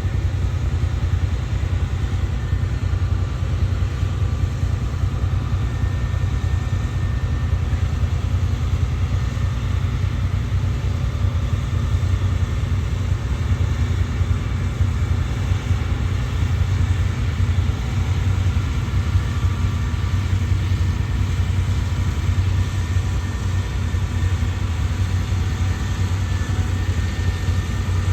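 Fendt tractor's diesel engine running steadily, a low, even rumble with no change in speed.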